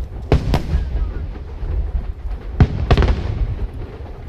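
Aerial firework shells bursting: two pairs of sharp bangs, one pair just after the start and one about two and a half seconds later, with a low rumble between them.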